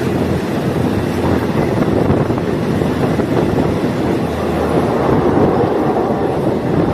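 Diesel multiple-unit train running along the track, heard from on board: a steady rumble of wheels and engine mixed with wind noise.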